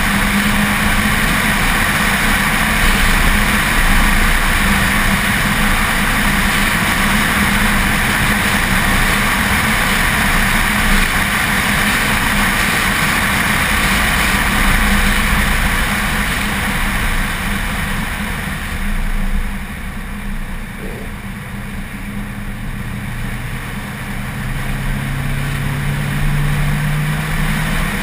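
Track car's engine running hard at speed, heard from a camera mounted outside on the car's rear with wind and road noise over it. About two-thirds through the engine eases off, then pulls again with its pitch rising towards the end.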